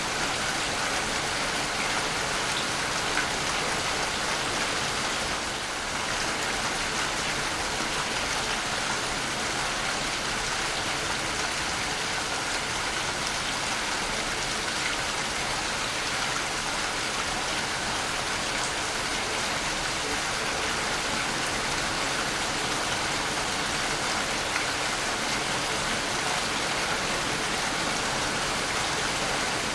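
Waterfall: a steady, unbroken rush of falling water, with a brief slight dip in level about five and a half seconds in.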